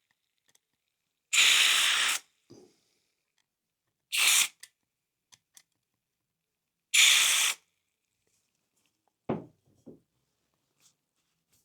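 Aerosol contact cleaner sprayed in three short hissing bursts into a model locomotive's can motor through the holes at its commutator, to clear the dirt that had stopped the motor. A couple of light knocks follow near the end.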